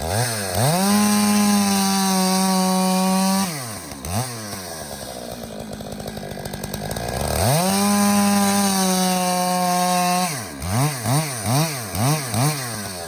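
Stihl chainsaw engine revved to full throttle and held for about three seconds, dropping back to idle, then held at full throttle again, followed near the end by about five quick blips of the throttle.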